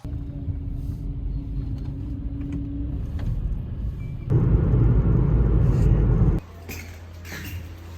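Low vehicle rumble, as of a car on the road. It gets louder for about two seconds in the middle, then cuts off suddenly to a quieter low hum with a few light clicks.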